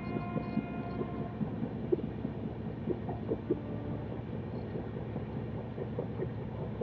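Running noise of a moving passenger train: a steady rumble with scattered light clicks and knocks. A faint steady tone fades out about a second and a half in.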